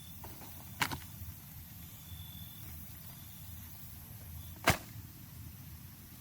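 Sharp whacks: a pair close together about a second in, then a single louder one about four seconds later, over a low steady outdoor background.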